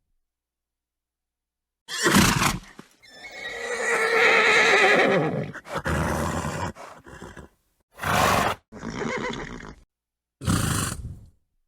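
A horse gives a short snort, then a loud whinny lasting a few seconds that tails off, followed by three short snorts, with dead silence between them.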